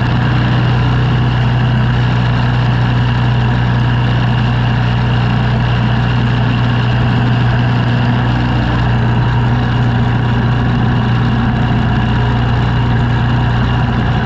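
An engine running steadily at a constant speed, a loud, even low hum with no change in pitch or level.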